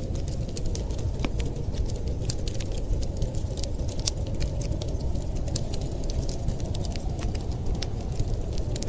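Wood fire crackling with many small, irregular pops and snaps over a steady low rumble.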